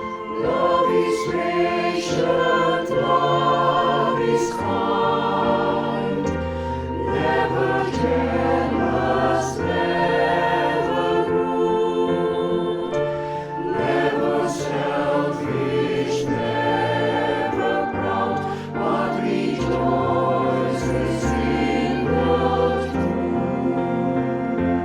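Mixed choir singing a sacred song in harmony with keyboard accompaniment.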